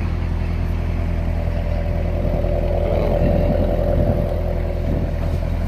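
A car engine idling steadily, with a low even hum and a slightly louder whir swelling briefly near the middle.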